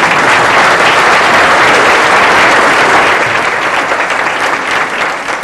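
Audience applauding loudly at the end of a song, the clapping fading off over the last couple of seconds.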